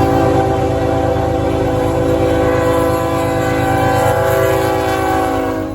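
Diesel locomotive air horn blowing one long chord of several steady tones over the low rumble of the train, cutting off at the end.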